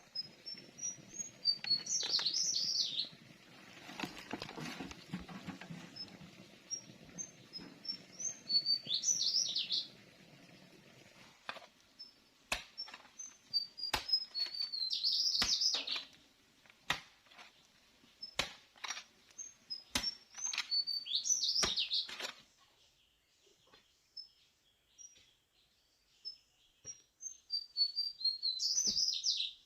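A songbird repeating the same song about every six or seven seconds: a run of short high notes, then a louder falling phrase. A low rustling noise runs through the first third, and sharp clicks or knocks come now and then in the middle.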